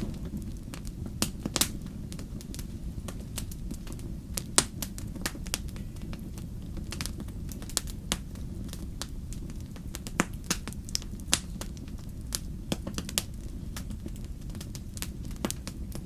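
Wood fire burning: irregular sharp crackles and pops, a few louder ones, over a steady low rumble of the flames.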